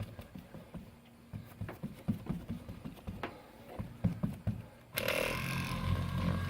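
Scattered handling taps and knocks, then about five seconds in a cheap Harbor Freight electric buffer switches on and runs with a steady motor hum.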